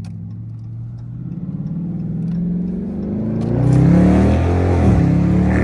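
2022 Dodge Charger R/T's 5.7-litre HEMI V8, exhaust opened up by a mid-muffler delete, accelerating hard. The exhaust note climbs in pitch and grows louder from about a second and a half in, is loudest around four seconds, and dips briefly about five seconds in.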